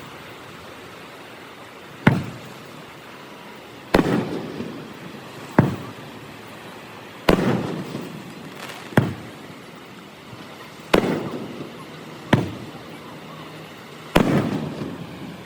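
Aerial fireworks shells bursting: eight sharp bangs, roughly one every two seconds, each followed by a rumbling echo that dies away.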